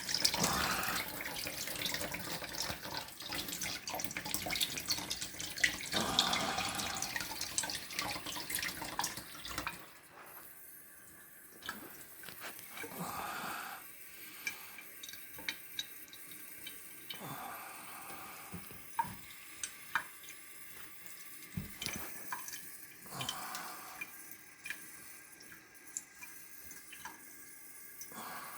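Water running from a sink tap, which stops about ten seconds in, followed by scattered drips and small clicks.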